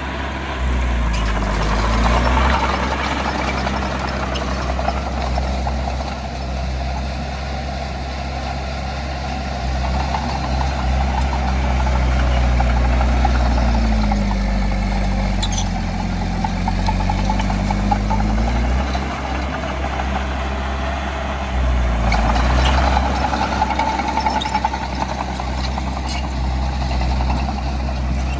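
Heavy diesel engine of an earthmoving machine working continuously, its engine speed rising and falling several times under changing load. A few sharp knocks come through partway in.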